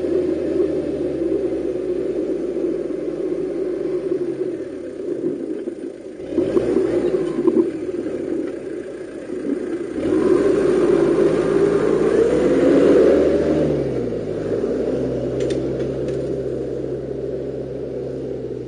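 Toyota 4x4's engine running as it drives down a steep dirt slope and passes close by, the engine note shifting as the driver changes speed. It grows loudest as the vehicle comes nearest, with brief clattering about six to eight seconds in and a short rise in pitch near the thirteen-second mark.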